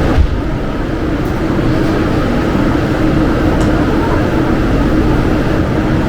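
Interior noise of a Class 350/2 electric multiple unit on the move: a steady rumble with an even hum, and one low thump about a quarter second in.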